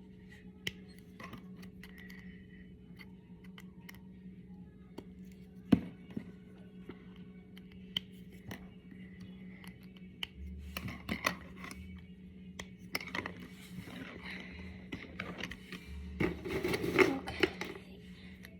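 Small plastic Brain Flakes discs clicking and rattling as they are handled and pushed together. Scattered sharp clicks, with a busier stretch of clicking and scraping near the end, over a steady low hum.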